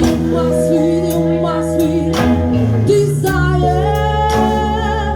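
Live jazz band playing: a steady bass line, cymbal strokes and a melody line that holds notes with vibrato from about three seconds in.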